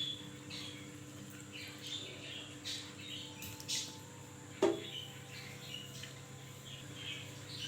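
Small birds chirping on and off over a low steady hum, with one sharp knock and a short ring about four and a half seconds in.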